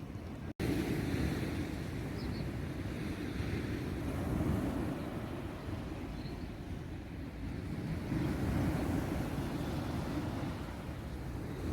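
Sea wind buffeting the microphone over the wash of surf, a steady low noise that swells and eases every few seconds. The sound drops out for an instant about half a second in.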